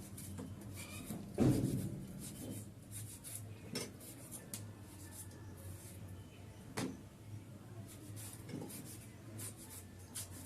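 Kitchen knife cutting tomatoes on a cutting board: soft taps and scrapes, with a few louder knocks, the loudest about a second and a half in and another near seven seconds.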